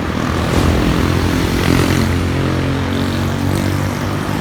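A continuous engine drone with several pitched tones that glide slowly in pitch, as from a motor passing by.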